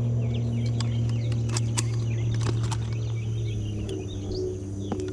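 Birds chirping busily over a steady low mechanical hum, with a few sharp clicks and taps in between.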